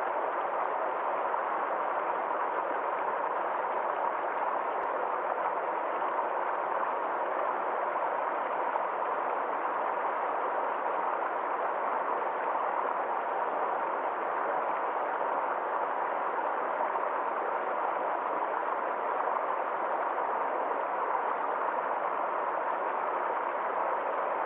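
Forest stream flowing steadily: an even wash of water noise that does not pause or change.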